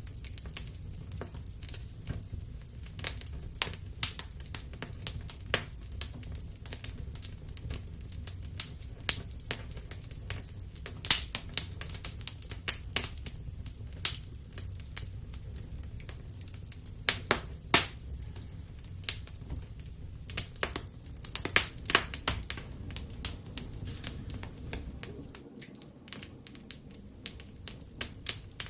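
Wood fire crackling in a fireplace: irregular sharp pops and snaps, sometimes several in quick succession, over a low steady rumble.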